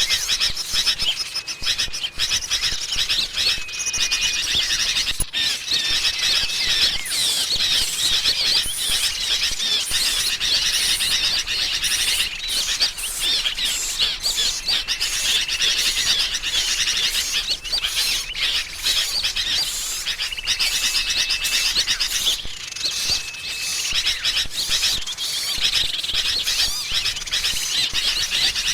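A lure recording of agitated sooty-headed bulbuls (kutilang) mixed with small birds gives a dense, continuous chatter of overlapping chirps, with a short level whistle now and then. It is a bird-trapping call meant to draw in small birds.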